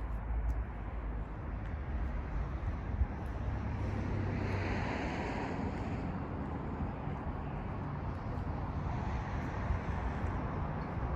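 2020 BMW X6 40i driving, its turbocharged straight-six and road noise making a steady low rumble, with a brief swell of higher hiss about halfway through.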